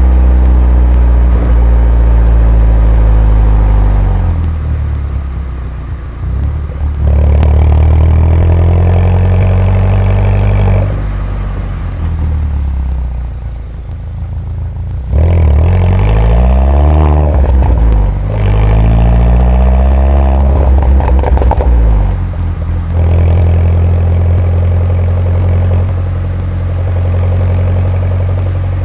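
2011 Mini R57 John Cooper Works' turbocharged 1.6-litre four-cylinder engine and stock exhaust under repeated acceleration, the pitch climbing through the gears. It drops away each time the throttle is lifted, with a swoop down and back up about halfway through.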